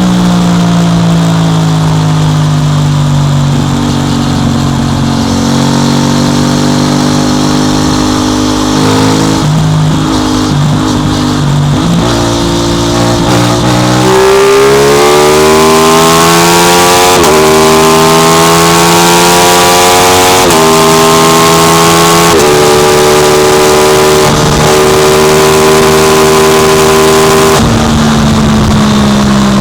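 Aprilia RS660 Extrema's parallel-twin engine heard from onboard the motorcycle. It slows at first, then about halfway through accelerates hard through the gears, the pitch climbing and dropping sharply at each of three upshifts. It holds a high, steady note at speed and rolls off near the end, with wind rushing over the microphone.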